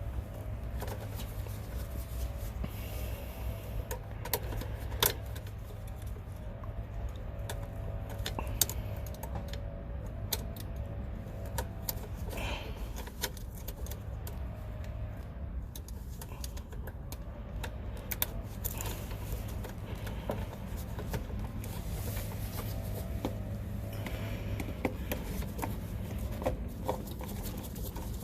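Scattered small metallic clicks and taps of hand tools and wire terminals being handled while wiring a new contactor, over a steady low hum.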